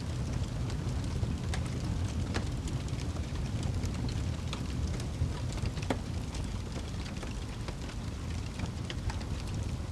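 Campfire crackling and popping: scattered sharp pops, one louder about six seconds in, over a steady low rumble.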